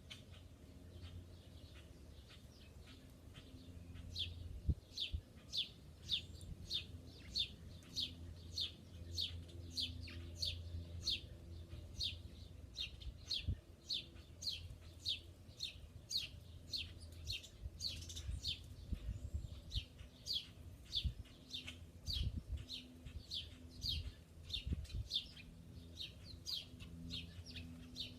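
A small songbird chirping over and over, short sharp chirps about two a second, fainter at first and louder from about four seconds in.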